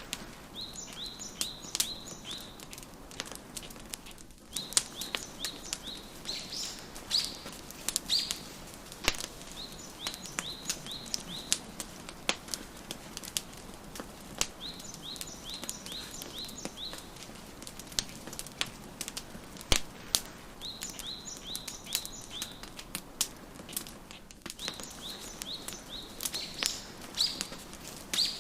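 Wood fire crackling with frequent sharp pops and snaps, while a songbird sings repeated runs of short, high chirps every few seconds.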